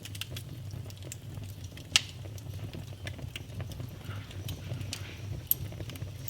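Wood fire in a fireplace crackling: scattered irregular clicks over a low steady rumble, with a sharp pop about two seconds in and another near the end.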